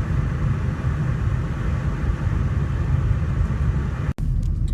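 Car driving on a snowy road: a steady rumble of engine and tyres heard from inside the cabin, cutting out for an instant near the end.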